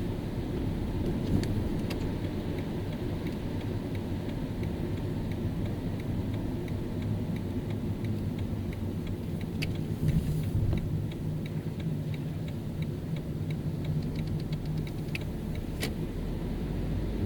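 Car driving on a rain-wet road: steady engine and tyre rumble with a faint regular ticking. About ten seconds in the sound swells and a steady low engine tone holds for several seconds.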